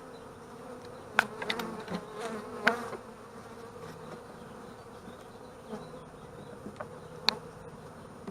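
Honeybees buzzing in a steady hum around an open hive. A few sharp clicks cut through, a cluster in the first three seconds and one more about seven seconds in.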